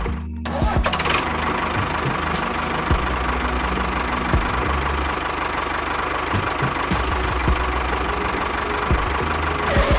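Small motor of a homemade mini tractor running steadily, a mechanical hum with rattling, cut off for a moment just after the start.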